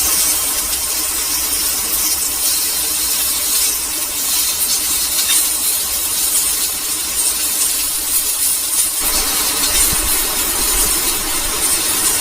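Steady hiss of heavy rain falling, with a low rumble of wind underneath.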